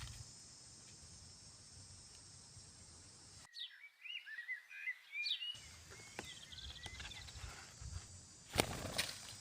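Steady outdoor hiss with a high insect-like drone; about three and a half seconds in, a two-second run of short, quick bird chirps rising and falling in pitch. Near the end, a brief rustle or handling noise.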